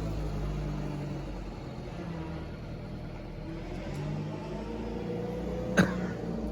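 Motor vehicle engine running steadily, its pitch shifting slightly, with one sharp knock near the end.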